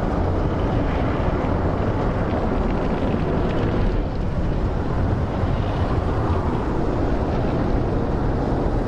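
Tunnel car wash heard from inside the car's cabin: a steady, dense rush of water spray and spinning wash brushes working against the car's body.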